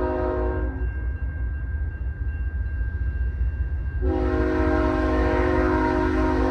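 Diesel locomotive air horn sounding a chord: one blast cuts off about a second in, and a second long blast starts about four seconds in, over a constant low rumble.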